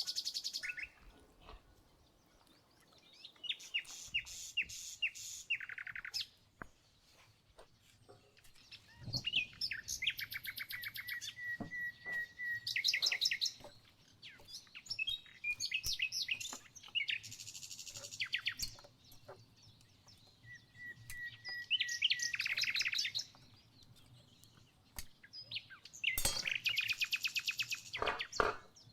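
A songbird singing repeated phrases, each a quick run of high notes lasting two to three seconds, with short pauses between. A few sharp clicks or knocks fall between the phrases.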